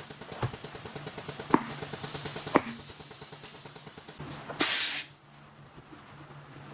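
Fast, even mechanical ticking with a few sharp clicks, then a short, loud blast of hissing compressed air about four and a half seconds in.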